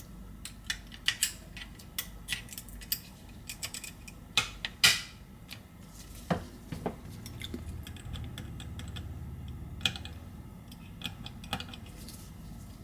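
Irregular small, sharp clicks and taps of an iPhone 11 motherboard being fitted into its metal frame, with tools and parts handled and board connectors pressed home. The clicks are densest in the first half, with the loudest pair just before five seconds in, and grow sparser later.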